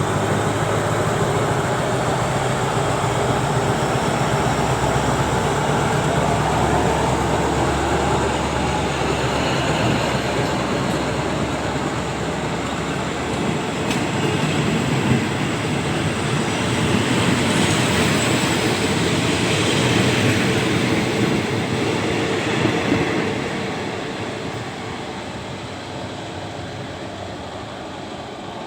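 Diesel-hauled train running past, a loud steady rumble of engine and rolling wheels that fades away over the last few seconds.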